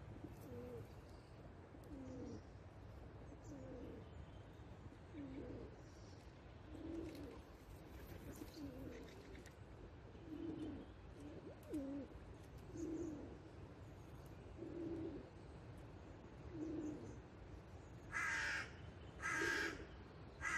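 Pigeon cooing faintly in the background, a low note about once a second, then a crow cawing twice near the end, much louder.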